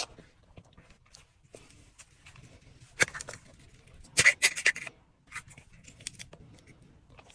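Sharp clicks and crinkling crackles from handling a dessert platter and its plastic packaging, with one loud crack about three seconds in and a loud burst of crackles about a second later.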